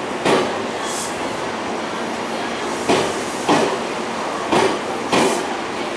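Tobu Railway electric commuter train moving past the platform with a steady running rumble. Its wheels clack over a rail joint in quick pairs, about once every second or two.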